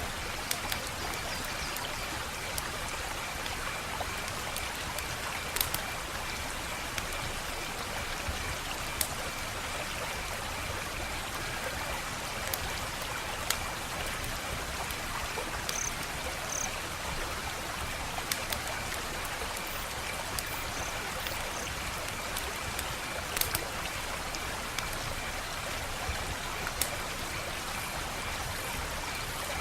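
Wood fire crackling: a steady hiss with sharp snaps and pops at irregular intervals, every second or few seconds.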